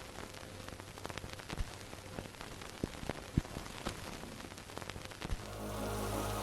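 Rain falling, with single drops tapping sharply and unevenly close by. About five seconds in, the rain gets louder and steady music with held notes comes in.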